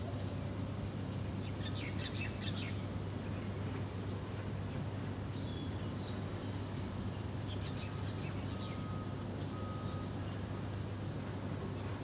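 Small birds chirping in short clusters, about two seconds in and again around eight seconds, with a few brief whistled notes between, over a steady low hum and background noise.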